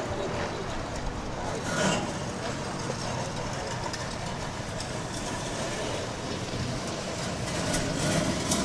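A vehicle engine running steadily at low revs, with a brief louder moment about two seconds in.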